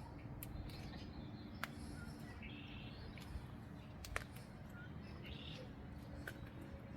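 Scattered bird chirps over a steady low rumble, with a few sharp clicks, the loudest about one and a half and four seconds in.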